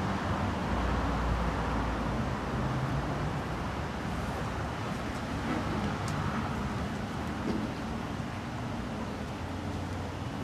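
Steady motor-vehicle noise, an even rumble with no revving.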